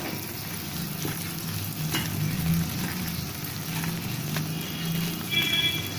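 Khoa sizzling gently in a frying pan on a low flame while a wooden spatula stirs sugar into it, with a few soft scrapes against the pan.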